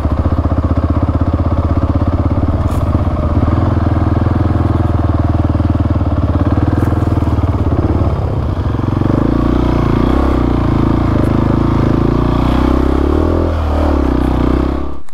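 Single-cylinder four-stroke dual-sport motorcycle engine running under load while riding. Its pitch shifts about halfway through and dips and rises again near the end.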